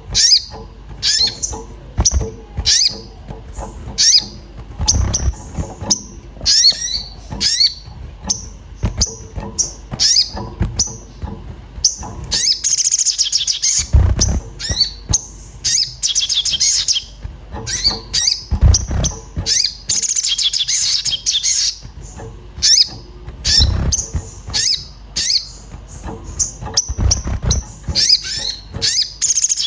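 An agitated sogon songbird giving rapid, repeated high-pitched 'cuit cuit' chirps, broken by a few longer runs of fast trilling, the excited calling that keepers use as a lure to set other birds singing. A few dull low thumps come in between.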